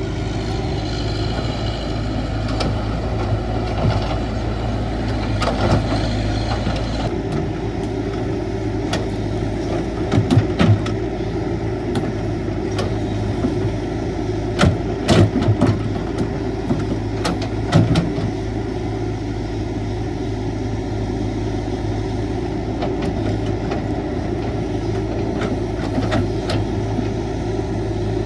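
CAT 312 excavator's diesel engine running steadily under work, with a high whine that stops about seven seconds in and several sharp clanks, loudest about ten, fifteen and eighteen seconds in.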